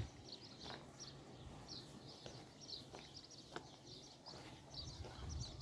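Small birds chirping in quick, short, high notes, repeated throughout, with a few faint sharp taps in between.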